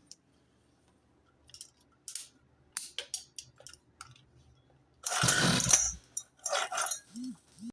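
Clicks and knocks of handling, then a loud rasping pull about five seconds in and a shorter, weaker one near the end, typical of the recoil starter of a 49 cc mini dirt bike engine being yanked. The engine does not catch and run.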